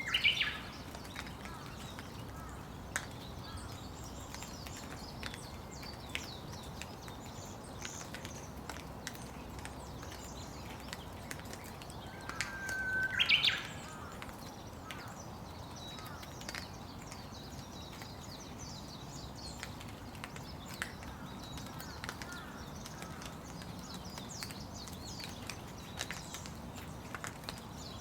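Steady rain with scattered drips ticking. A bird calls twice, right at the start and about halfway through, each time a short level whistle followed by a sharp upward note; these calls are the loudest sounds.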